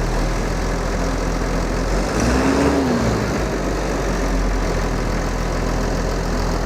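Tractor's diesel engine idling steadily, moments after being started.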